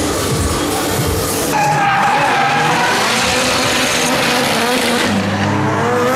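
A drift car's engine revving hard with rising and falling pitch while its tyres squeal and skid.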